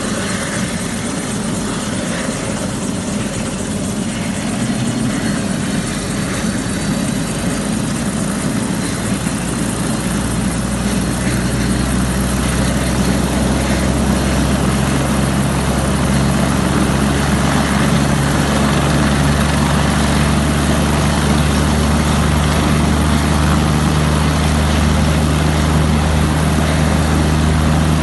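Helicopter running with a steady rush of rotor and turbine noise; about a third of the way in a low steady hum builds and the sound grows louder.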